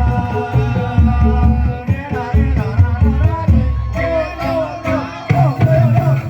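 Band music with a heavy bass and drum beat under held instrument notes; a voice sings over it from about four seconds in.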